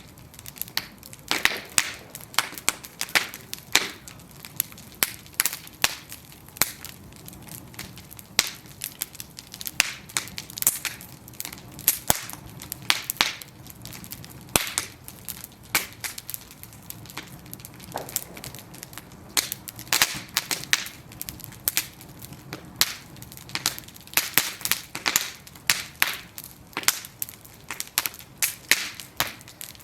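Bonfire of burning wooden planks crackling, with sharp irregular pops and snaps, several a second and sometimes in quick clusters, over a low steady rush of the flames.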